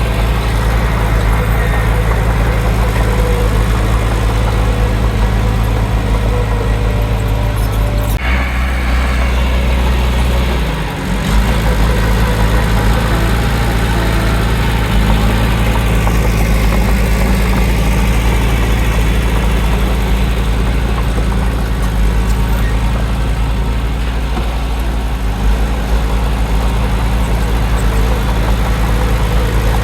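Heavy diesel engine of earthmoving machinery running steadily under load, with a sudden change in the deep engine note for about three seconds from about eight seconds in.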